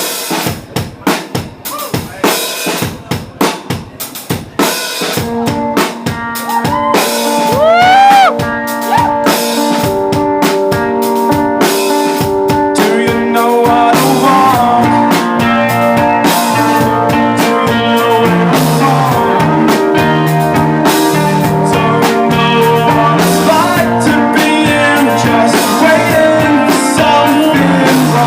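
Live rock band playing an instrumental passage: the drum kit plays alone at first, then sustained guitar notes with a few bent, sliding notes come in about five seconds in, and a low bass line joins around halfway, filling out into the full band.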